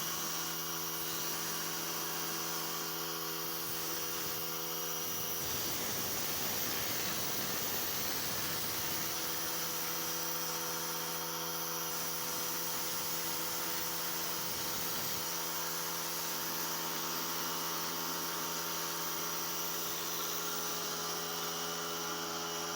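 Electric air compressor running steadily with a motor hum, while a drywall texture hopper gun sprays knockdown mud, adding a rough airy hiss from about five to fifteen seconds in.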